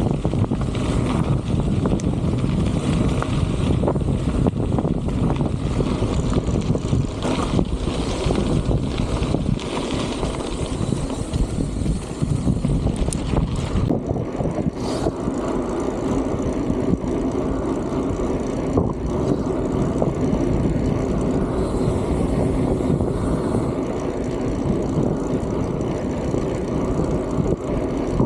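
Strong wind blowing across the microphone, a steady low rumbling noise with no break.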